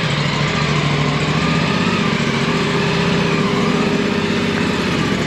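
Aprilia Tuono 457's parallel-twin engine, through its stock exhaust, idling steadily with no revving.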